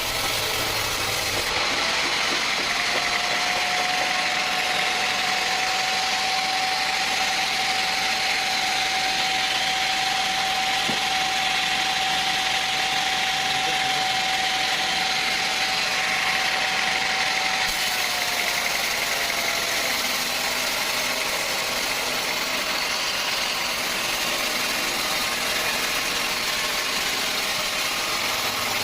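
Sawmill machinery running steadily under engine power, with a humming tone that holds level and then sinks away about eighteen seconds in.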